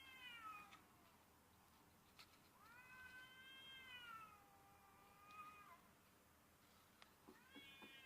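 A cat's long, drawn-out meows, faint: one call trailing off in the first second, a long one of about three seconds that rises quickly and then slowly falls in pitch, and another beginning near the end.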